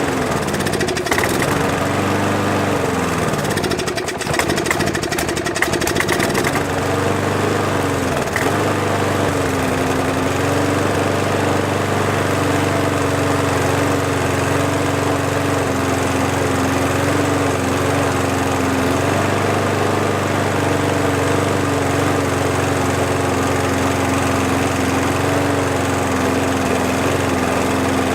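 McCulloch petrol lawn mower's four-stroke engine running, its speed dipping and surging unevenly for the first ten seconds or so and then settling into a steady run. It is running after being flooded with oil and coaxed to fire with brake cleaner sprayed into the carburettor.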